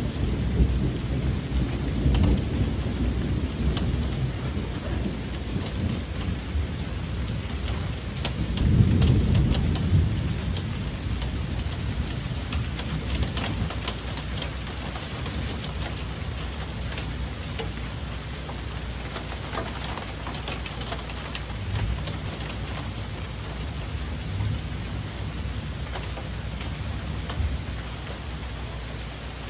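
Steady rain falling on autumn forest foliage, with scattered ticks of single drops. A low roll of thunder swells to its loudest about nine seconds in and then fades away, leaving only the rain.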